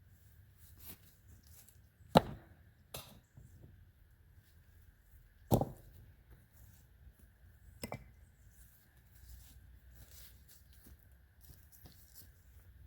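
Stones knocking as they are dropped and packed into place: four sharp hits, the loudest about two seconds in and about five and a half seconds in, with lighter ones near three and eight seconds.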